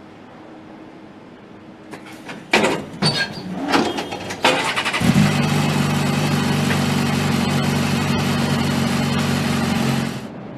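Motorcycle engine starting: a couple of seconds of irregular clatter, then it catches and idles steadily for about five seconds before it cuts off.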